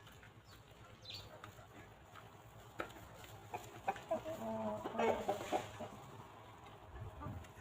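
Hens clucking, with a run of clucks in the middle, among scattered light clicks. A brief low rumble comes near the end.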